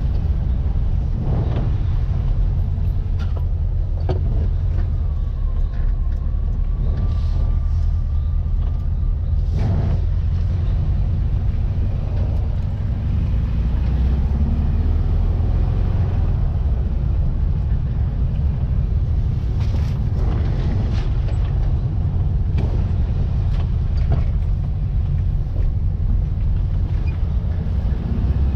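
Air-cooled 1700cc VW flat-four engine of a Baja Bug running under way, a steady low drone, with a few short knocks now and then.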